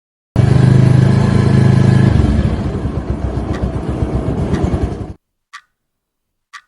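A motor vehicle's engine running, starting abruptly with a steady low hum that turns into a rapid low pulsing, then cutting off suddenly after about five seconds. Two short faint clicks follow near the end.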